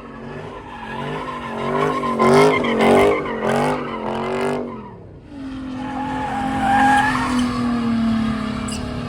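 Car engine revving up and down in quick pulses, then holding at high revs while the tyres squeal and skid.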